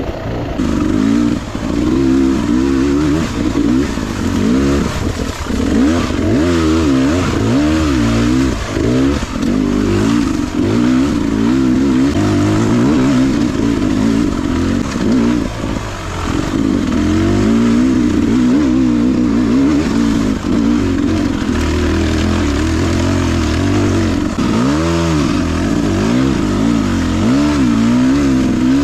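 Beta 300RR two-stroke enduro engine revving up and down continuously under changing throttle while being ridden, with a short throttle-off dip and pick-up near the end.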